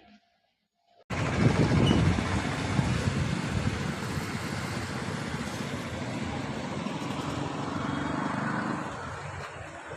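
A train running, with a steady rumble and rail noise that cuts in abruptly about a second in after near silence.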